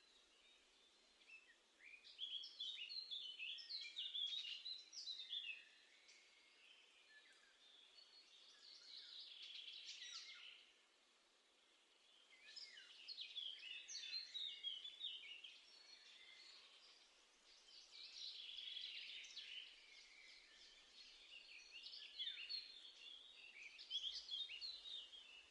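A songbird singing outdoors in a series of phrases of quick, chirping notes, each phrase lasting about three seconds with a pause of a second or two between, over faint background hiss.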